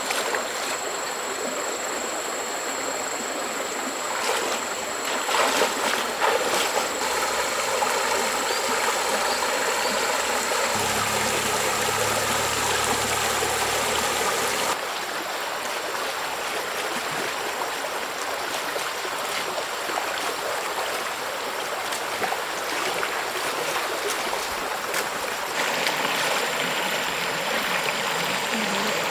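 Mountain stream running over rocks: a steady rush of water with a thin, high, steady tone above it. The water sound changes abruptly twice.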